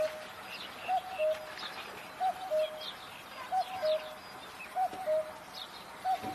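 A bird cooing: a short rising-and-falling note followed by a slightly lower held note, repeated evenly about every second and a quarter. Faint high chirps sound in the background.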